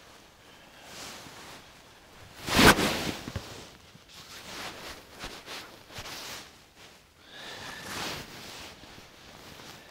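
Camp gear being handled and taken apart: rustling and shuffling, with one loud sharp knock or clatter about two and a half seconds in and a softer scraping swell near the end.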